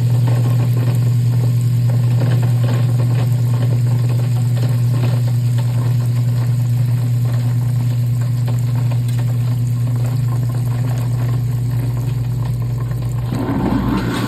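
Kitchen sink garbage disposal running, with a steady electric motor hum and a dense crackling rattle over it. A louder rumble comes near the end.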